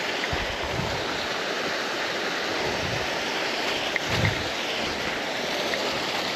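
Steady rushing of creek water running high after rain, with a few soft low thuds about a second, three seconds and four seconds in.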